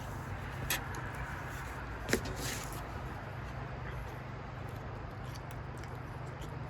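Two light clicks of cutlery against a plate, the second followed by a brief scrape, over a steady low background hum.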